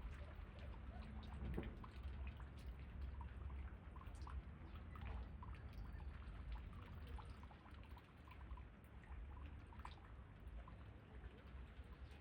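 Faint steady rain, with many scattered drops ticking, over a low wind rumble.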